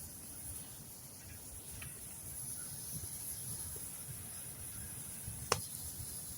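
Campfire burning with a steady hiss and one sharp crackle about five and a half seconds in.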